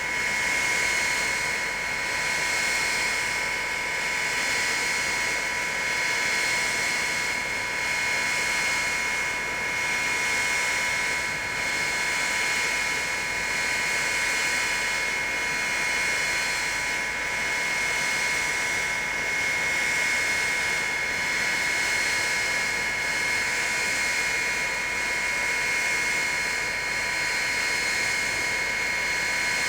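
Avro Vulcan B2's four Rolls-Royce Olympus turbojets running steadily during a taxi run: a high, steady whine over a broad hiss that swells and fades slightly every couple of seconds.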